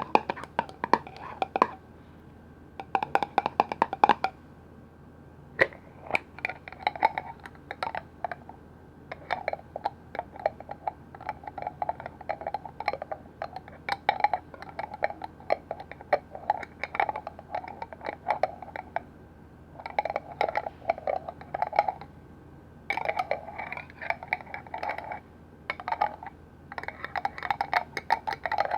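Quick, light tapping on a hard container or its lid, in runs of a few seconds broken by short pauses, each tap with a slight ringing note.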